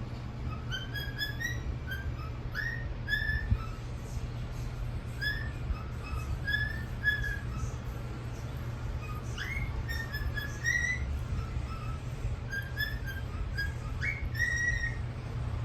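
Whistling: a string of short whistled notes and quick upward slides, with a steady low hum underneath.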